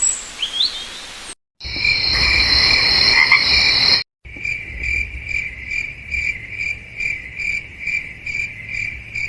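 Crickets chirping in short edited snatches. A steady high trill is followed, after a cut, by regular chirps at about two a second.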